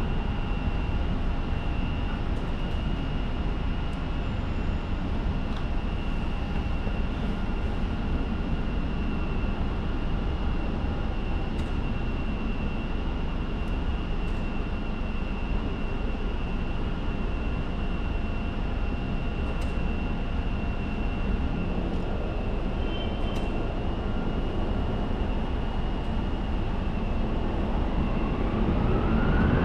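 Jet airliner engines running steadily, a loud rush with a high, steady whine; near the end the whine rises in pitch and the sound grows louder.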